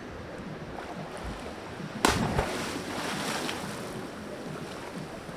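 A sudden splash of sea water about two seconds in, hissing away over the next second or so, over steady surf and wind noise.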